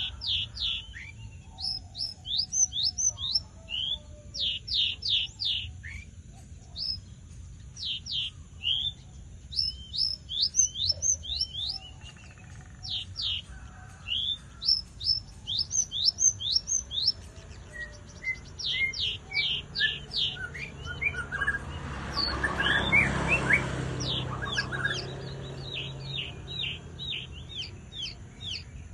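Javan bush lark (branjangan) singing energetically: rapid runs of short, sharply falling whistled notes, repeated in phrases with short gaps. About two-thirds of the way through a louder, noisier stretch rises under the song for a few seconds.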